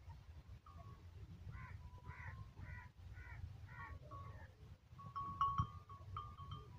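A bird calling: a run of about six short calls a little under half a second apart, then thinner, higher calls near the end.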